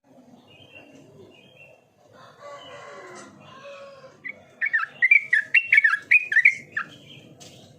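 Yellow-vented bulbul (trucukan) singing a loud, quick run of bubbly whistled notes, from about four and a half seconds in to nearly seven. Before it, a fainter rooster crows in the background.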